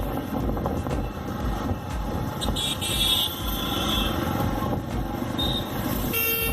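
Motorcycle riding along the road, engine running under a steady rush of wind noise with a low pulsing rumble. A vehicle horn toots just before the end.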